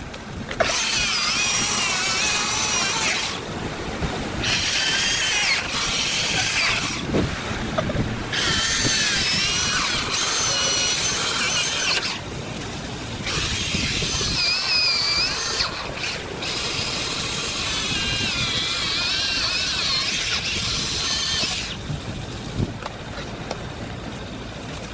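Chainsaw cutting fallen timber in five bursts of a few seconds each, its whine wavering as it bogs under load and dropping off briefly between cuts.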